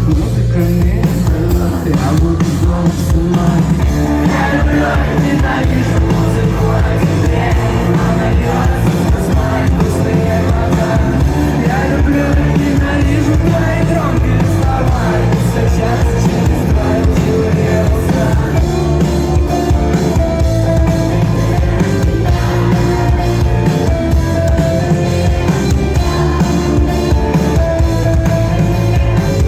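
Rock band playing live: drum kit, bass and guitars with a sung lead vocal, loud and steady throughout.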